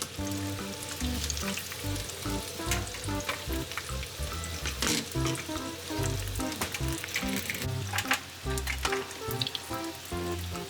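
Food frying and sizzling in a pan, with scattered clicks of a utensil stirring against it, over background music with a stepping bass line.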